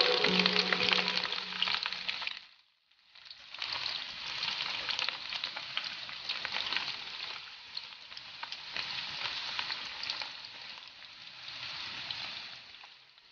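Bitter gourd pieces and peels shallow-frying in hot oil in a wok: a steady sizzle full of small crackles and pops, now and then stirred with a spatula. The sound cuts out for about a second early on, then the sizzle carries on.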